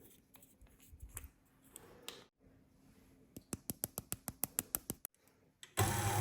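A run of quick, light clicks, about eight a second for a second and a half. Near the end, a Kenwood Cooking Chef XL stand mixer's motor starts up and runs steadily, much louder than the clicks.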